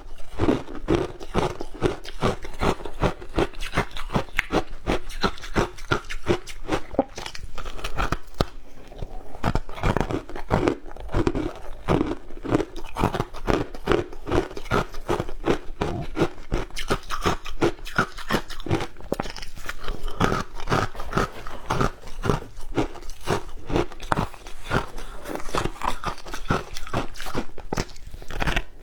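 Matcha shaved ice being bitten and chewed, a dense run of crisp crunches several times a second without a break.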